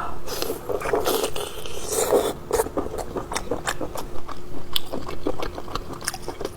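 Close-miked eating: biting and chewing food, with a quick run of short wet clicks and smacks. A faint steady hum sits underneath.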